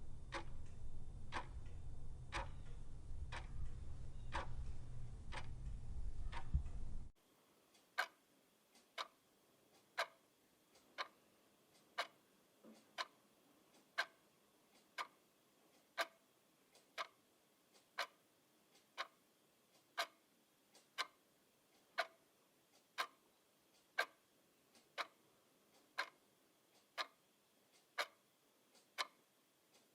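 Clock ticking. For about the first seven seconds the ticks come a little faster than once a second over a low hum. Then it cuts suddenly to a cleaner clock ticking exactly once a second with a quiet background.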